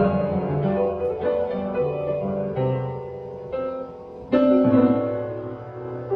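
Background piano music with slow held chords; a louder chord comes in about four and a half seconds in.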